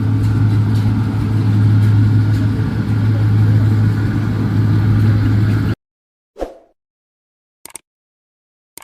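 New Holland Clayson 1545-S combine harvester's engine running steadily with a strong low hum, then cut off abruptly about six seconds in. After that, silence broken by a couple of short clicks.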